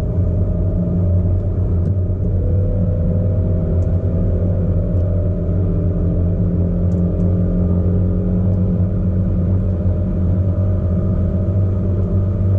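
ABT-tuned Audi SQ5 driving along, its engine and exhaust making a steady drone with a deep rumble, the pitch shifting only slightly.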